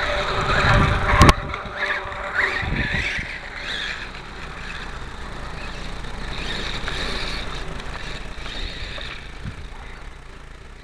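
Atomik MM450 radio-controlled motorcycle's motor whining and changing pitch as the throttle is worked for slow manoeuvring, with a sharp knock about a second in.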